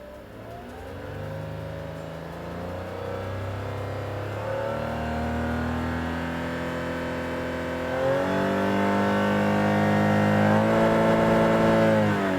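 Toyota Mark X GRX130's engine pulling hard, its note climbing in pitch in steps and growing steadily louder, then dropping away near the end as the throttle is released.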